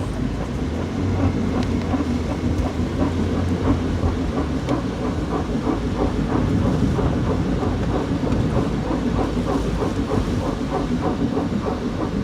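Scraping noise from the front left wheel of a moving Toyota Prius, a rhythmic scrape repeating several times a second over the steady rumble of the car on the road, growing more distinct a few seconds in.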